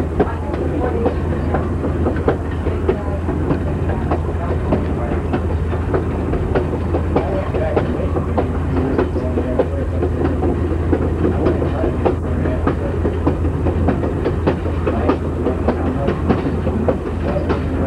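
Passenger car of a steam train rolling along jointed track: a steady low rumble with frequent irregular clicks and knocks from the wheels over the rail joints.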